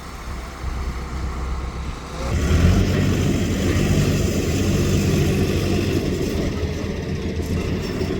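A motor vehicle's engine running close by, growing louder about two seconds in and then holding steady.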